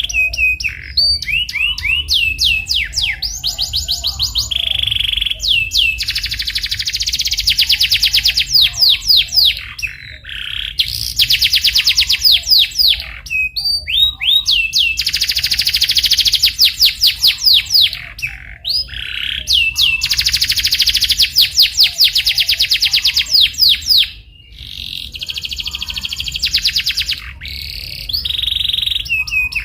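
Domestic canary singing in full song: long, fast rolling trills alternating with runs of quick downward-sweeping chirps, with short pauses between phrases.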